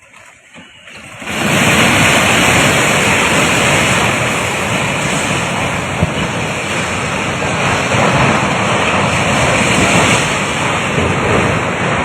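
Rushing floodwater, a loud steady noise that starts abruptly about a second in and keeps on without a break.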